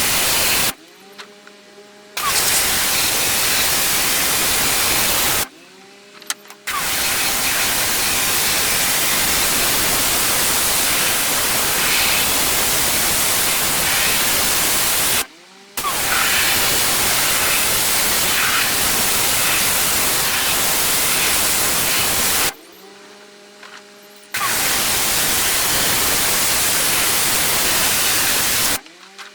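Pressure washer jet spraying paving, a loud steady hiss that stops abruptly five times for a second or two as the trigger is let go. In each pause the washer's motor hums on more quietly.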